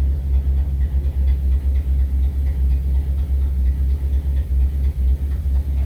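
1963 Mercury V8 idling steadily on a freshly rebuilt Motorcraft 2100 two-barrel carburetor, a deep even rumble through an exhaust system that is leaking and worn out.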